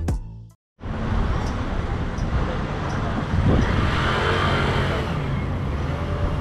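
Road traffic noise: a steady rumble of passing cars that swells for a moment around the middle. It is preceded by a beat of background music that cuts off within the first half-second.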